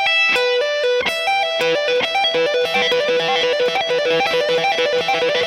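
A guitar plays a repeating minor pentatonic lick: a hammer-on from the 12th to the 15th fret and a pull-off back on the high E string, then the same on the B string. It starts slower and quickens into a fast, even stream of notes.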